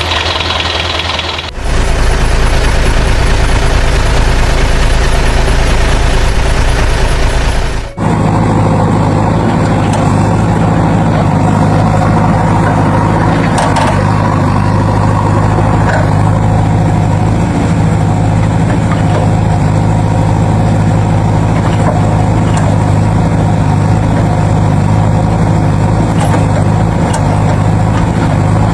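A heavy vehicle engine runs steadily at a low pitch. The sound changes abruptly about a second and a half in and again about eight seconds in, like spliced engine recordings.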